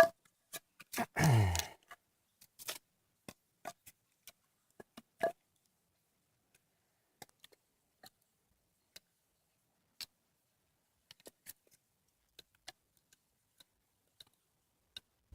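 Dry twigs and sticks being gathered and snapped: sparse, scattered sharp cracks and clicks. A short low sound falling in pitch comes about a second in.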